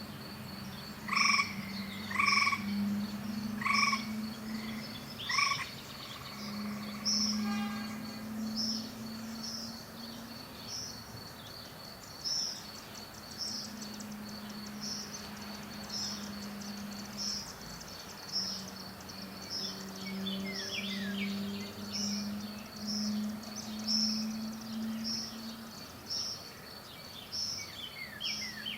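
Outdoor animal chorus: frogs croak in repeated low trills lasting a second or two each, over a fast, steady high insect pulse and frequent short bird chirps. Four louder calls stand out in the first six seconds.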